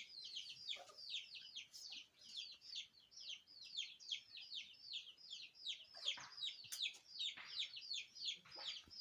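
Birds chirping continuously in quick, high, downward-sliding chirps, several a second, with a few lower calls mixed in.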